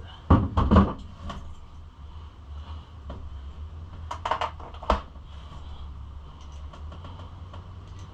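Metal hand tools clinking and clattering as they are handled, with a loud clatter about half a second in and another group of clinks around four seconds in.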